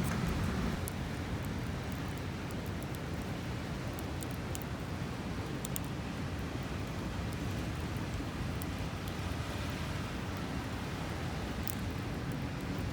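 Wood campfire crackling faintly with a few sharp ticks and pops, over a steady rushing background noise.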